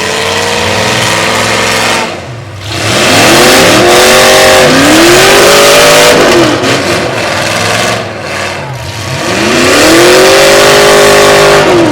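Demolition derby truck engines revving hard, their pitch climbing and falling in several long sweeps, with brief lulls about two seconds in and again near eight seconds.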